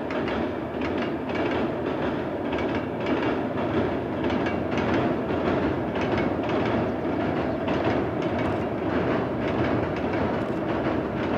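Intercity passenger train hauled by an ADtranz DE2000 diesel-electric locomotive crossing a steel truss viaduct: a steady noise of wheels rolling over the bridge, with an irregular clatter of wheels over the rail joints.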